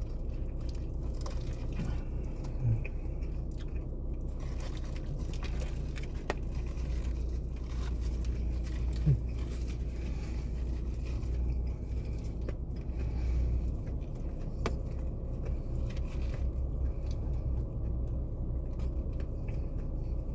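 A person chewing and biting into a crispy fried chicken sandwich, with scattered small crunches and clicks. A steady low hum from the car runs underneath.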